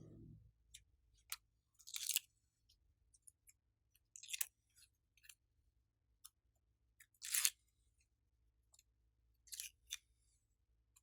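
Glossy slime being worked by hand, giving short wet crackling pops about every two to three seconds, with small clicks between them.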